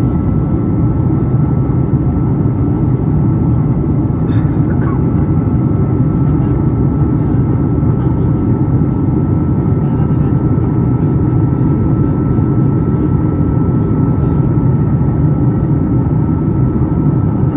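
Steady roar of engine and airflow noise inside a Boeing 737 MAX 8 passenger cabin, deep and even, with a thin steady whine above it. A few faint clicks come about four seconds in.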